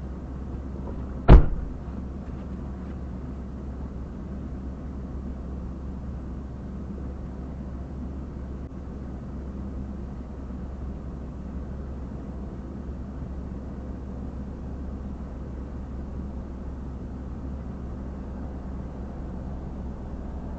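Steady low rumble of a parked car with its engine running, with one sharp thump about a second in, like a car door shutting.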